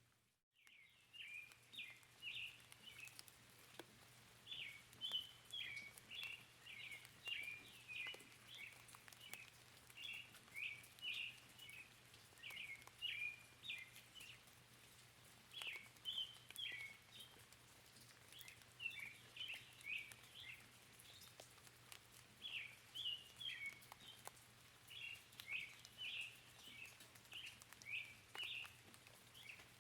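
Songbirds chirping in quick clusters of short, high notes, repeated every second or two, over a faint steady background hiss. A brief drop to silence comes just after the start.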